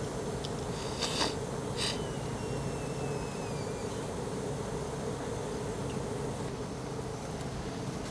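Steady hum of a portable gas burner running under a frying pan, with two short clatters about one and two seconds in.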